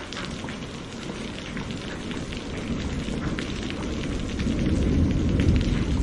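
Steady rain with sharp crackles of a wood fire over it, and a low rumble of thunder that builds from about two-thirds of the way through.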